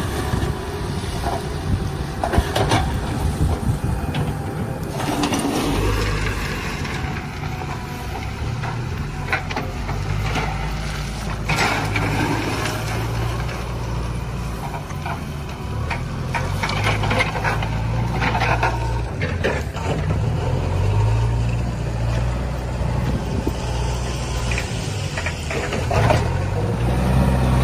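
Heavy diesel machinery running, the engine note rising and falling as it works under changing load, with occasional sharp knocks.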